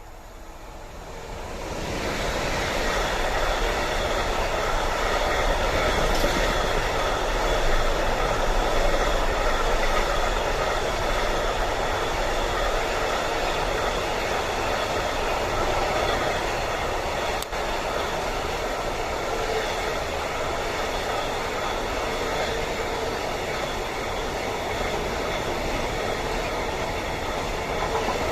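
Train passing close by on the line: the rolling noise swells over the first two seconds and then holds as a loud, steady rumble of wheels on rails.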